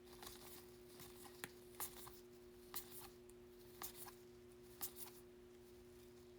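Near silence with faint, scattered ticks and slides of baseball trading cards being handled and sorted, about one every second, over a faint steady hum.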